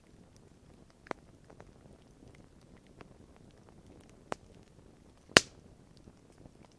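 Wood campfire crackling: scattered small pops and ticks, with one loud sharp crack about five seconds in.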